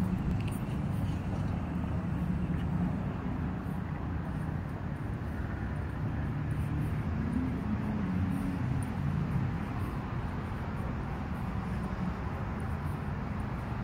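Steady low hum of a vehicle engine running, its pitch shifting slightly partway through.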